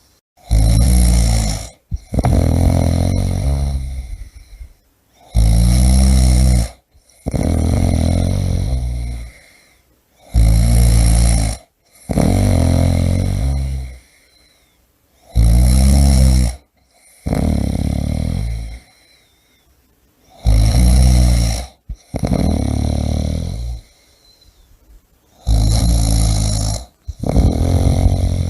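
A person snoring heavily, a loud, deep, rattling snore on each breath. The sounds come in pairs, one for each breath cycle, about every five seconds.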